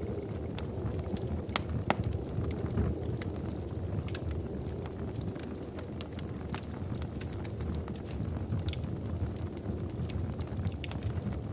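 Wood fire crackling in a fireplace: a steady low rush of flame with irregular sharp pops and snaps.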